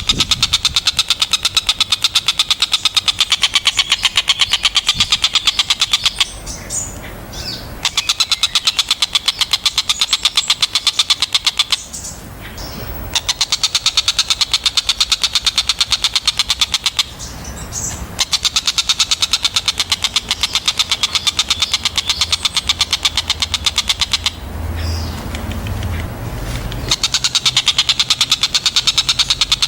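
Javan kingfisher (tengkek buto) giving a loud, very rapid rattling call in long runs of several seconds each, with short pauses between.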